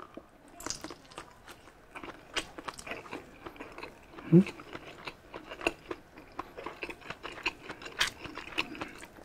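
Close-miked chewing of a mouthful of grilled sausage: wet mouth smacks and clicks, with a short hummed "mm" about four seconds in.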